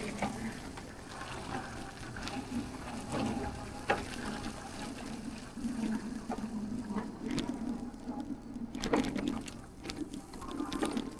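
Water splashing and running from a park fountain, a steady wash of noise with scattered clicks.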